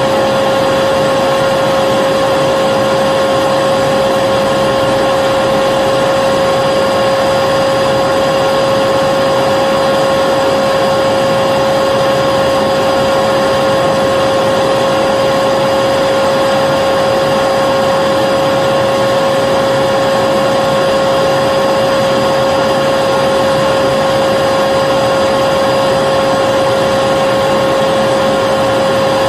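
Vacuum cleaner running steadily: a constant motor whine with a strong steady pitch over the rush of air, unchanging in level.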